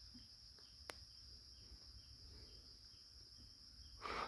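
Faint, steady, high-pitched drone of forest insects such as crickets. There is a small click about a second in and a brief rustle near the end.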